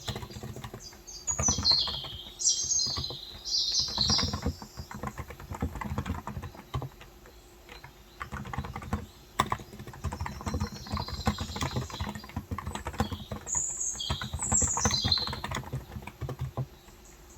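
Typing on a Cox Endeavour electrostatic capacitive (non-contact) tenkeyless keyboard with 35 g switches: an irregular, continuous patter of keystrokes. Birds chirp outside in two bouts of quick, falling high notes, about a second in and again around eleven seconds in.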